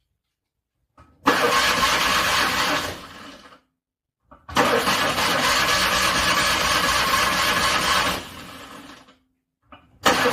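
A car engine being cranked in freezing cold and failing to start. The first attempt lasts about a second and a half and the second about four seconds; each starts just after a faint click, then trails off quieter before stopping. A third attempt begins near the end.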